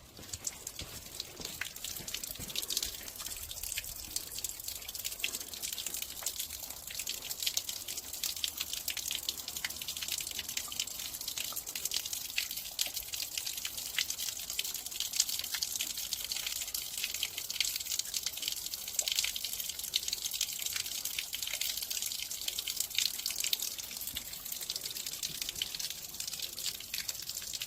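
Water trickling steadily with many small drips and splashes, as it drains by gravity through a system air conditioner's condensate drain line in a drainage test.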